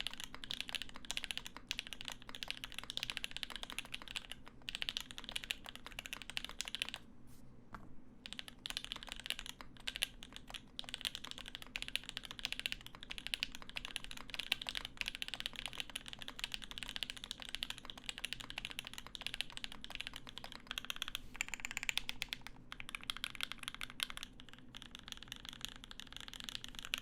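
Fast, continuous typing on the Percent Studio Skog-Reboot prototype mechanical keyboard, a dense run of key clacks that pauses briefly about seven seconds in and again near the end.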